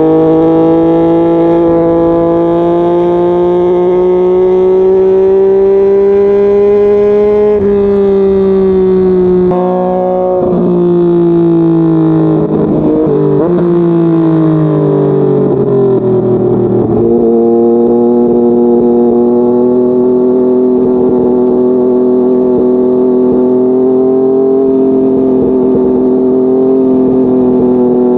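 2020 Yamaha MT-09's inline-three engine running under way: revs held fairly steady and creeping up at first, then falling in steps through the middle as the bike slows and changes down, before settling to a steady cruise again.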